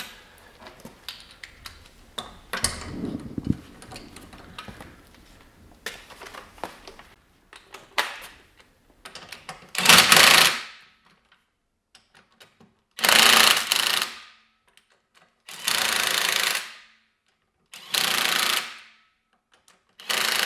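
Impact wrench hammering wheel bolts in, run in five short bursts of about a second each, roughly two to three seconds apart, in the second half. Before them come scattered clicks and rattles of parts being handled.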